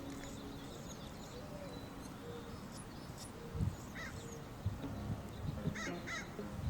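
Outdoor garden ambience over a steady low rumble, with a few short, sharp bird chirps: one about four seconds in and a quick pair near the end.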